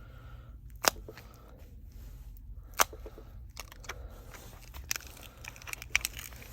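Plastic battery pry tool working under a glued-in smartphone battery: a string of sharp clicks and crackles as the adhesive gives way, the two loudest snaps about one and three seconds in, over a steady low hum.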